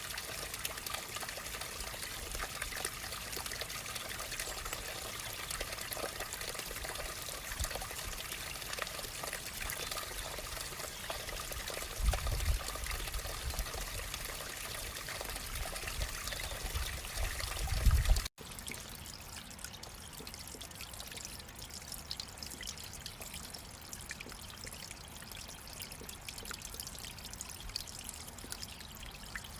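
Running water trickling steadily, like a small stream. Low rumbles come in about twelve seconds in and again just before a sudden cut at about eighteen seconds. After the cut the trickling water goes on, a little quieter.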